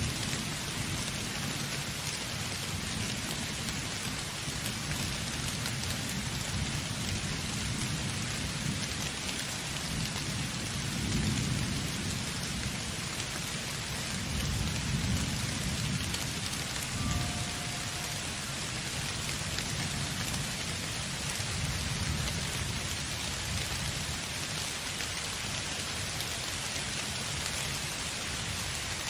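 Steady rain falling, with low rolling thunder rumbling underneath that swells twice, about eleven and fifteen seconds in.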